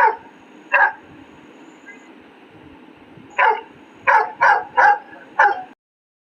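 A dog barking: two barks about a second apart, then a pause, then a quick run of five barks. Everything cuts off abruptly near the end.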